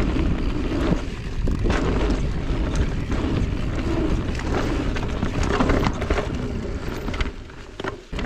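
Riding noise from a mountain e-bike on a dirt trail: wind rumbling on the microphone and tyres on dirt, with scattered knocks and rattles from the bike over rough ground. It drops briefly in loudness near the end.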